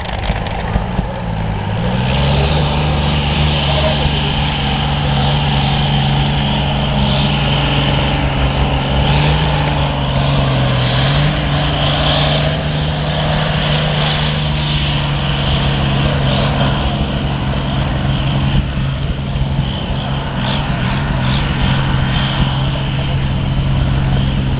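Pulling tractor's engine revving up about two seconds in, then held at steady high revs under load, with a slight rise in pitch about ten seconds in.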